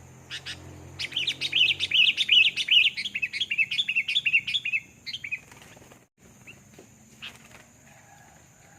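A bird's rapid chattering call: a quick run of sharp chirps, several a second, that starts about a second in and stops after about five seconds, with a few scattered single chirps afterwards.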